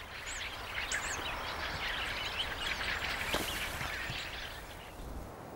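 A flock of fieldfares calling from the rowan trees: many short, overlapping chirps that thin out and fade over the last second or so.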